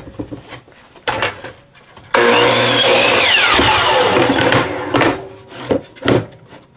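Electric power saw crosscutting a cedar fence picket to length. A few knocks as the board is set in place, then the saw starts suddenly about two seconds in and runs loud for about two and a half seconds, its pitch falling as it winds down, followed by a couple more knocks.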